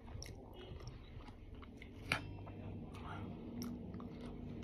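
A person chewing watermelon close to the microphone: soft wet mouth sounds, with a few sharp clicks, the strongest about two seconds in.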